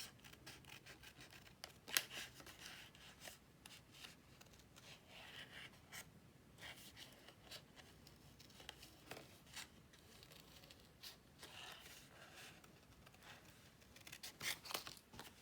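Small scissors snipping through card in short, faint, irregular cuts as a stamped image is cut out closely round its edges, with a sharper snip about two seconds in and a quick run of snips near the end.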